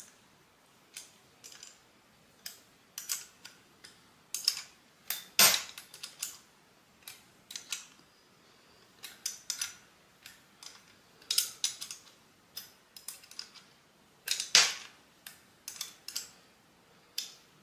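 Irregular small metallic clicks and taps as the bleed nipple is screwed into a motorcycle front brake caliper and the parts and tools are handled, with two louder knocks, one about five seconds in and one near fifteen seconds.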